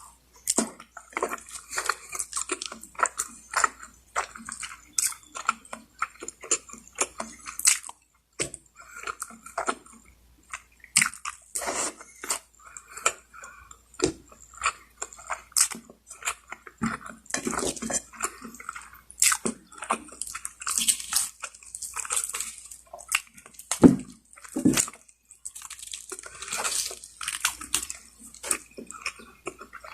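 Close-miked eating: a person biting and chewing lechon manok, spit-roasted chicken, with many short irregular clicks and mouth smacks.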